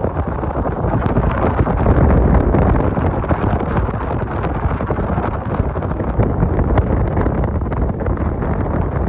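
Wind in a forest buffeting the microphone: a loud, steady rumble with many small ticks scattered through it.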